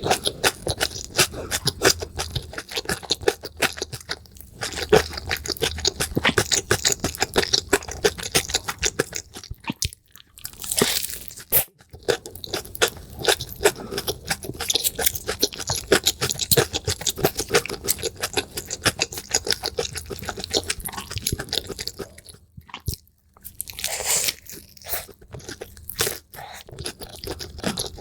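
Close-miked eating sounds, sped up: rapid crunching and chewing with a few brief pauses.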